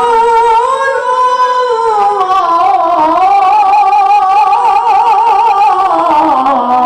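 A male Quran reciter's high voice holds one long melismatic note in tilawah style. The pitch rises early, wavers with vibrato in the middle and falls near the end.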